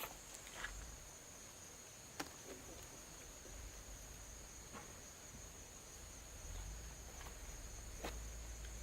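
Steady high-pitched insect drone, with a few faint scattered taps and a low rumble underneath.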